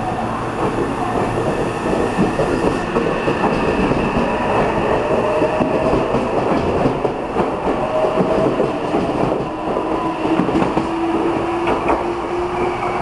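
Meitetsu 2200 series electric train pulling out of the station and running past at close range, with its wheels clicking over rail joints under a steady rumble. A motor whine climbs slowly in pitch as it picks up speed.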